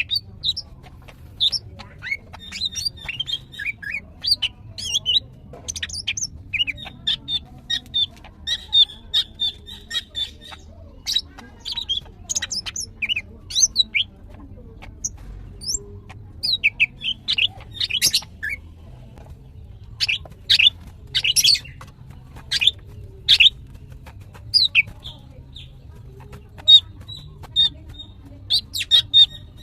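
Female greater green leafbird (cucak ijo) in breeding condition calling fast and excitedly: runs of short chirps and whistles mixed with rattling trills, broken by short pauses. This is the female call that draws males to answer.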